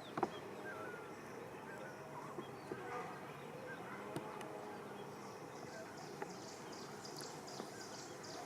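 Outdoor ambience: faint bird chirps and insect buzzing over a steady background hiss, with a sharp click about a quarter second in and a few softer ticks after it.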